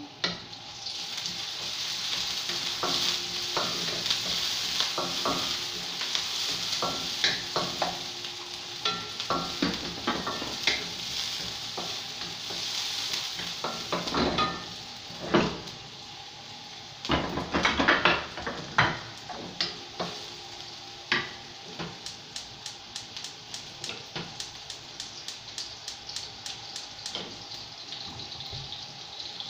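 Chopped onion and garlic sizzling in hot oil in a wok, stirred with a wooden spatula that scrapes and knocks against the pan. The sizzle is strongest for the first half and then fades, with louder knocks in the middle and quick light taps near the end.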